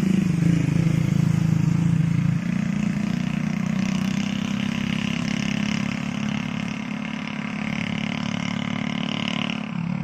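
Heavy diesel truck engine labouring steadily as the loaded truck climbs past, with a slight dip in level about two seconds in.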